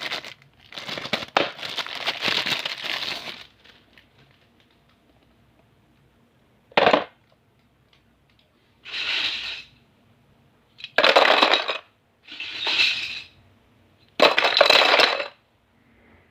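Plastic packaging crinkling for the first few seconds, then a sharp click and four separate rattling, scraping bursts about a second each as small plastic stationery toys are handled.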